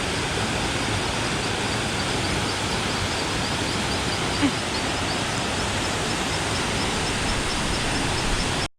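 River water rushing in a steady hiss, with a high chirp repeating about four times a second over it. The sound cuts off abruptly near the end.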